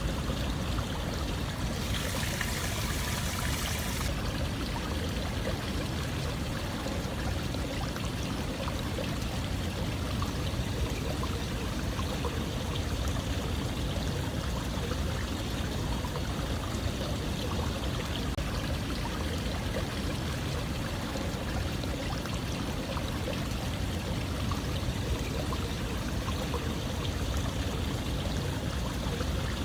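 Running water flowing steadily, with a brighter hiss for about two seconds near the start.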